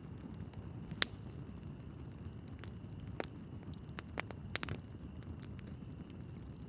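Wood fire burning in a fireplace: a steady low rumble of flames with sharp crackles and pops from the burning logs, the loudest pop about a second in and a quick cluster of pops a little past the middle.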